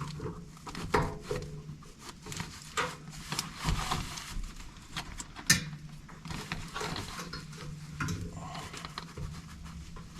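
Hand-work noises from reinstalling an air handler's blower run capacitor: scattered clicks, taps and rubbing of parts and wires, with one sharp click about five and a half seconds in.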